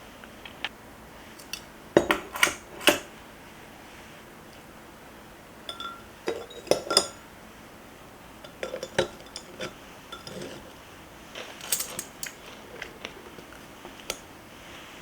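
Dishes and cutlery clinking and knocking in irregular clusters, sharp taps of metal and crockery being handled in a kitchen.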